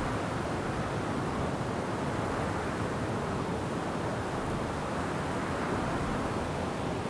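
Wind blowing steadily through forest trees, a constant even rush of leaves and branches.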